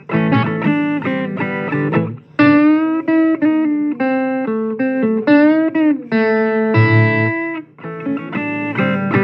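Blues guitar playing between sung verses: chopped chords, then a lead line of held, bent notes, then chords again.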